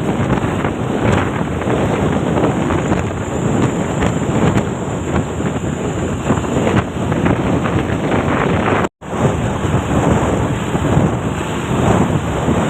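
Wind buffeting the microphone over the rumble of a moving vehicle on the road, with the sound cutting out completely for a moment about nine seconds in.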